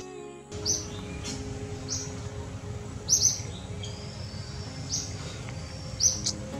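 Wild birds chirping: short, high-pitched calls repeated roughly once a second, some in quick pairs, over a steady low background hum.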